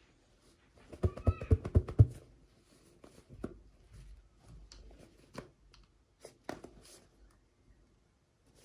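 Small plastic toy pieces and packaging being handled: a quick run of taps and knocks about a second in, with a brief high squeak among them, then scattered lighter clicks.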